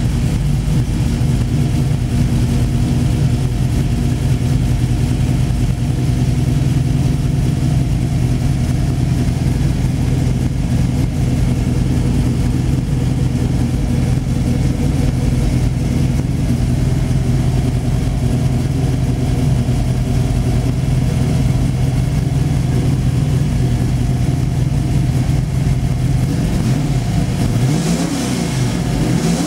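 Ford Racing 351 SVO V8 idling steadily just after a cold start, heard from the driver's seat. Near the end the throttle is blipped a couple of times, the engine note dropping and rising.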